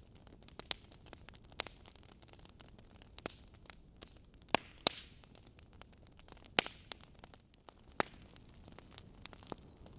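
Wood fire burning in a fireplace: logs crackling over a low steady hiss, with sharp irregular pops, the loudest a handful of snaps scattered through.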